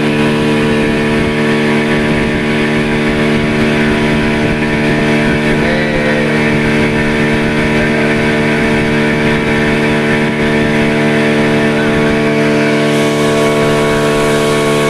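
Motorboat engine running at a steady, unchanging speed, a constant drone.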